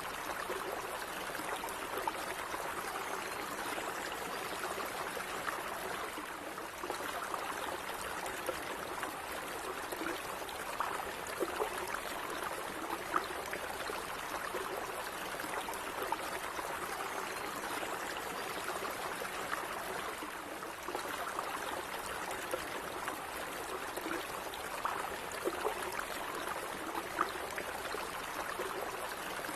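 Calm running water of a small stream, a steady babble with little splashing ticks here and there.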